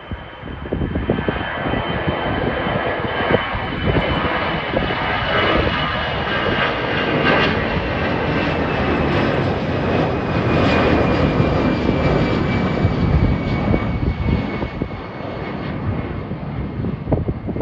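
Passenger airliner's engines running as it passes, a loud rumble that builds toward the middle and eases near the end, with a high whine sliding slowly down in pitch.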